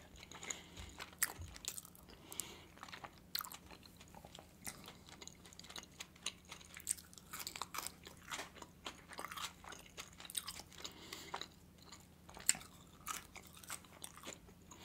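Close-miked chewing of juicy manti (steamed meat dumplings): irregular soft mouth clicks and smacks.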